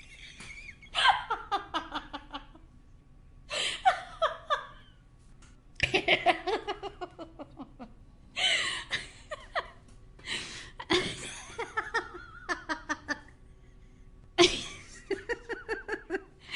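A woman laughing in several separate bouts, each a quick run of short ha-ha pulses, with brief pauses and breaths between the bouts.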